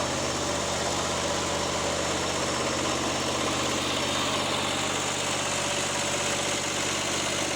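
Riding lawn mower engine running steadily at idle, running better than before but with a fault the owner says is almost certainly a fuel problem.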